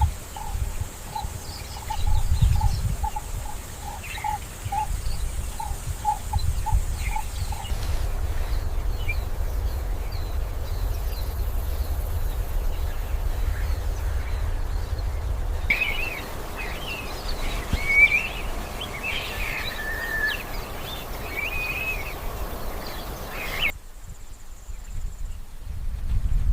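Outdoor ambience of several joined clips over a steady low rumble: a short high note repeated about twice a second for the first several seconds, then birds chirping in the second half.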